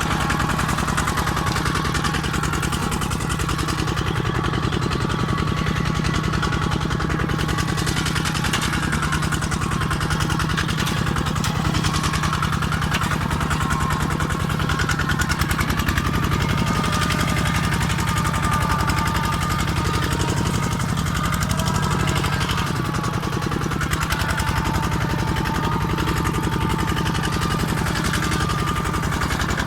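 Kubota tractor's diesel engine running steadily with a fast, even chugging; its pitch steps up slightly about halfway through.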